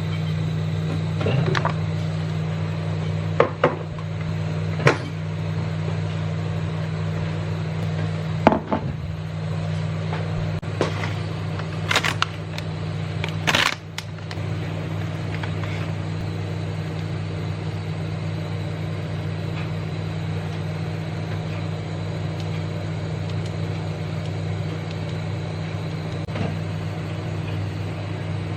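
Steady low mechanical hum, with several sharp clicks and knocks in the first half.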